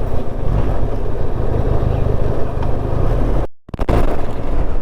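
Benelli TRK 502's parallel-twin engine running steadily under way, mixed with wind and road noise on the rider's microphone. The sound cuts out abruptly for a split second about three and a half seconds in, then resumes.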